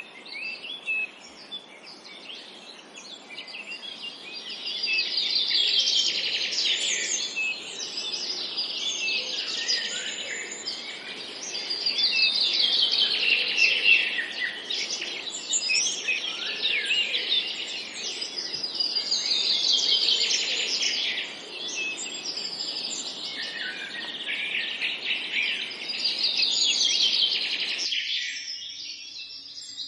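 Forest birdsong: a bird repeats a fast trilled song that falls in pitch, about every seven seconds, with other chirps around it. Underneath runs a soft steady hiss that cuts off suddenly near the end.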